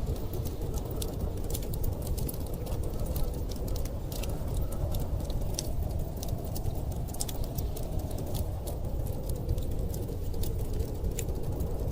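Wood fire crackling with frequent small sharp pops over a steady low rush of storm wind.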